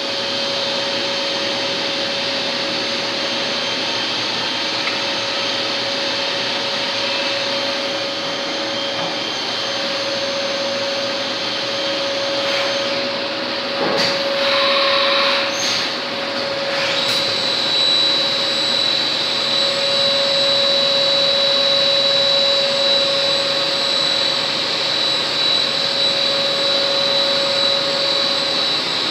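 Compact CNC automatic lathe running: a steady mechanical whir and hum with a constant mid-pitched tone. Partway through the sound briefly shifts, and after that a high steady whine runs on.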